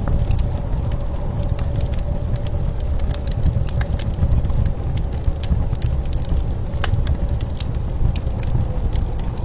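Blizzard wind keeps up a steady low rumble with a faint whistling tone, over the irregular snapping and popping of a crackling wood fire.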